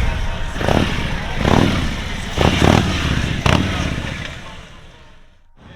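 Police motorcycle engine running through a slow-speed riding pattern, with about four short throttle bursts, then fading away.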